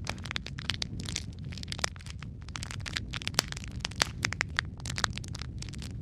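Wood fire crackling: a steady low rumble of burning with dense, irregular sharp pops and snaps.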